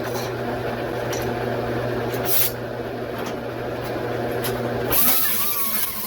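A steady mechanical hum with a few light clicks, cut off about five seconds in by a loud hiss like escaping air or spray.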